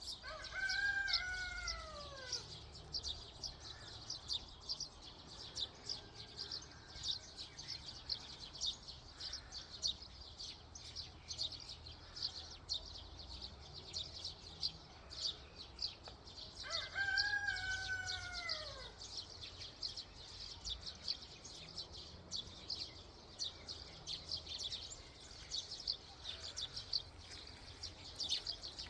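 A rooster crows twice, each crow a long call that falls in pitch at the end, the second about fifteen seconds after the first. Small songbirds chirp rapidly and continuously throughout.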